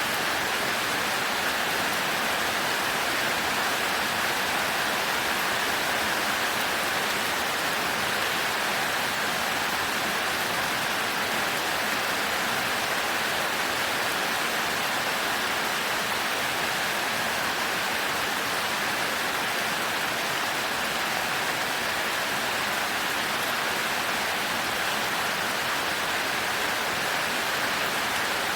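Heavy rain falling steadily: an even, constant hiss with no thunder and no breaks.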